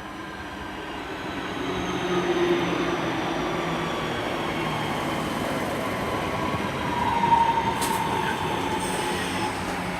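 Class 323 electric multiple unit pulling into the platform. It grows louder over the first couple of seconds and then holds steady. Its whine is made of several tones that slowly fall in pitch as it brakes, with a stronger falling tone late on.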